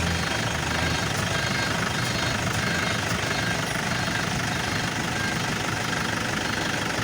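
Toyota Innova engine idling steadily while the steering wheel is held at full lock, loading the power steering. This is the test that brings out the steering squeak.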